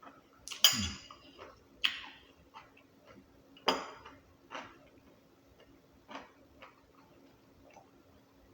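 A few sharp clatters and knocks of things being handled on a table, the loudest about half a second in with a dull thud under it, two more near two and four seconds, then a few softer taps.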